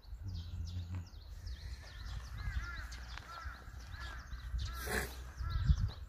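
Small birds chirping, a run of short repeated arched calls with higher twitters above, over a low rumble. A sharp click about five seconds in and a low thump near the end.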